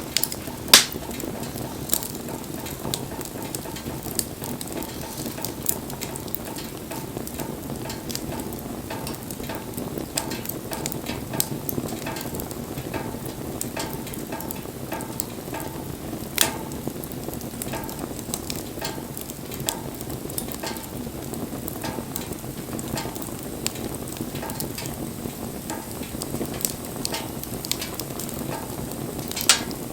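Wood bonfire burning with a steady crackle and frequent sharp pops, the loudest about a second in, around the middle, and just before the end.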